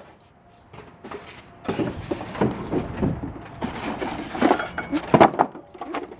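Garage door opener parts and their packaging being handled: a busy run of scraping, rustling and knocks that starts about two seconds in.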